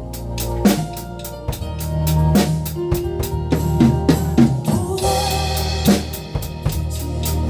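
Drum kit played to a steady beat, with regular hi-hat strokes and snare and bass drum hits over backing music with a bass line and held keyboard chords. A crash cymbal rings out about five seconds in.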